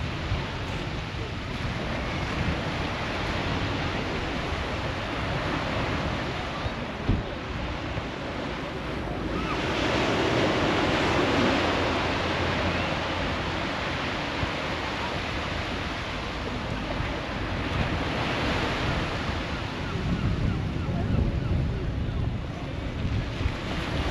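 Sea waves washing onto the beach with a steady hiss, swelling loudest about ten seconds in and again a little past halfway. Wind buffets the microphone with low thumps, strongest near the end.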